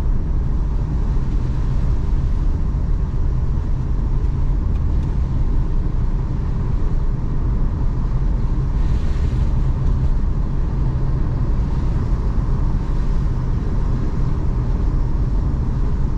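Steady road noise of a car driving, heard from inside the cabin: a continuous low engine and tyre rumble.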